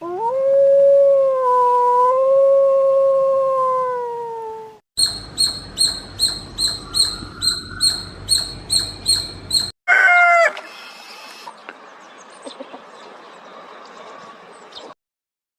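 A run of different animal calls. First a single long pitched call of about five seconds, then rapid repeated high chirps for about five seconds, then a short call falling in pitch, and a fainter rustling stretch until the end.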